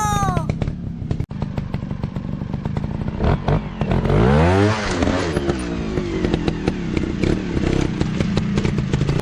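Off-road dirt bike engines running, with a dense clatter of firing pulses. About four seconds in, one bike revs up, its pitch climbing steeply, then drops back.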